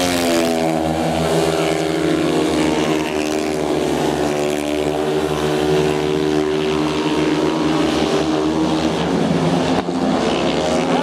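Two speedway bikes' 500 cc single-cylinder methanol engines running flat out around the dirt oval. Their pitch drops as they sweep past about a second in, then holds as a steady drone down the straight and through the bend.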